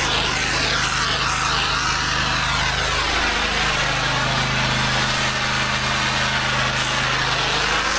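Pressure washer engine running steadily under the hiss of high-pressure water spraying. Its tone shifts slightly about three seconds in.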